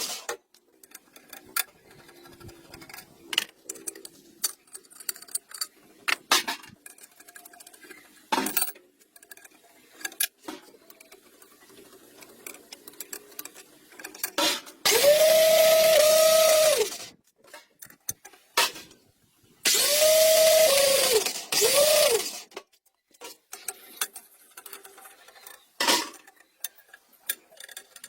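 A small motor run in three short bursts about a second apart, its whine rising, holding steady and dying away each time. Scattered clicks and clatters of tools being handled come before and between the bursts.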